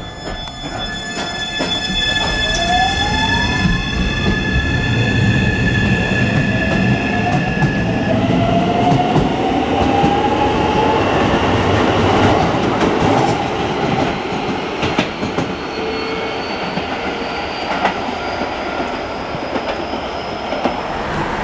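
Keisei 3000 series set 3003's Toyo IGBT-VVVF inverter, fitted with a hybrid SiC test unit, whining as the train accelerates: several steady tones for the first few seconds, then tones rising in pitch as speed builds, over rail and running noise.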